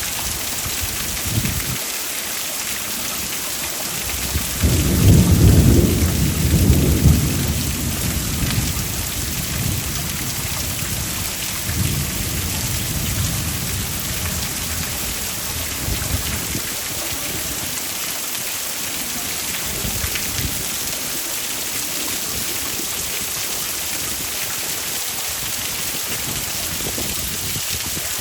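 Heavy rain hissing steadily, with a loud low rumble of thunder starting about four and a half seconds in and lasting a few seconds, then weaker rumbles a little later.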